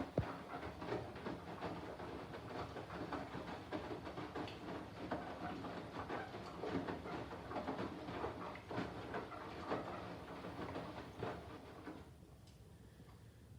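Candy front-loading washing machine's drum tumbling a load of bedding and towels in the main wash of a 90 °C boil wash: water sloshing and fabric falling with many small knocks. It dies down about twelve seconds in as the drum stops turning.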